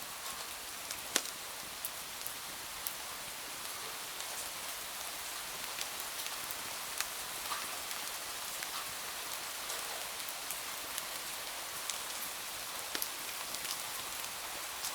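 Steady rain falling, a continuous hiss, with scattered sharp crackles and pops from a wood fire; the loudest snap comes about a second in.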